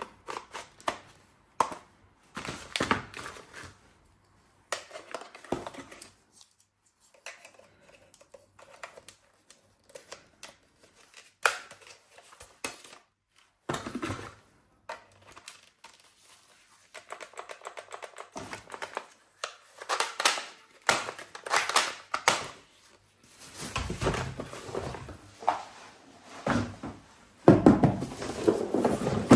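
Irregular runs of clicks, taps and light clatter with rustling, from objects being handled close by. Quieter gaps come around 5 to 7 s and 13 s, and it grows denser and louder near the end.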